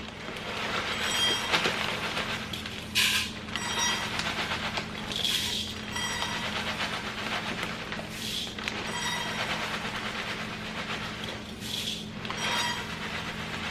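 Crispy rice cereal rustling and pouring as it is measured out cup by cup, with a louder rush every few seconds as each cupful is tipped in, over a steady low hum.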